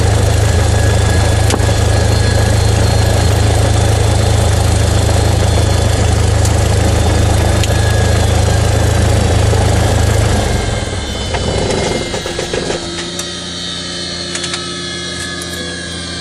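Cessna 172's piston engine idling steadily, then shut down about eleven seconds in: the drone dies away and faint whines fall in pitch as things spin down.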